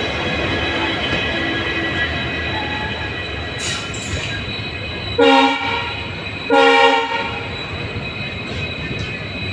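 Train running with a steady rumble, and its horn sounding two short blasts about halfway through, a little over a second apart.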